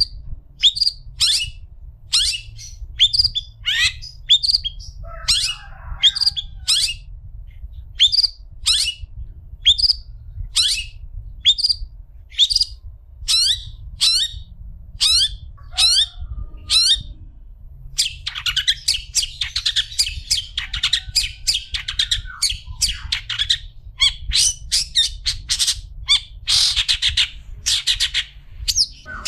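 Long-tailed shrike (cendet) calling: short, sharp, downward-sweeping notes repeated about twice a second, breaking into a rapid, dense chattering run about two-thirds of the way through.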